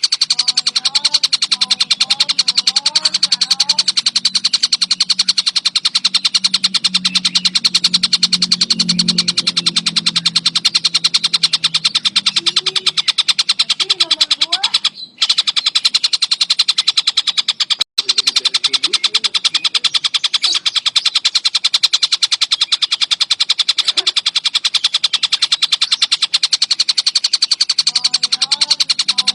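Songbird song for bird training: a fast, unbroken, high-pitched chattering trill, with lower whistled gliding notes underneath. The sound cuts out briefly twice, about halfway through and a few seconds later.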